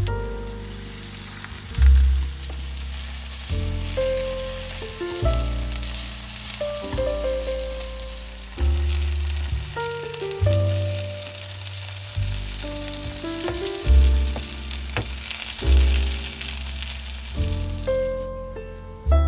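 Food frying in a hot pan, a steady sizzle that stops about a second before the end, under background music with piano and a deep bass line.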